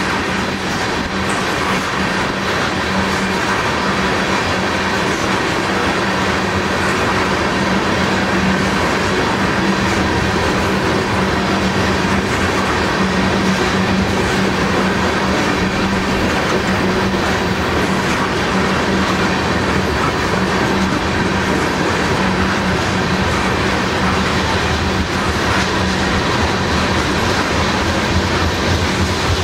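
A string of crude oil tank cars rolling past on the rails: steady wheel and rail noise with clickety-clack over the rail joints and a steady low hum.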